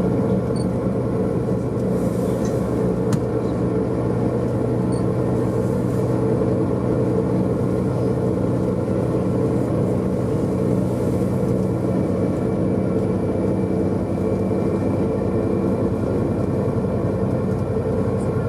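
Engine and rolling noise of a moving tour vehicle, heard from inside the cabin: a steady hum with a few held tones over a low rumble. Some of the low tones drop away about twelve seconds in.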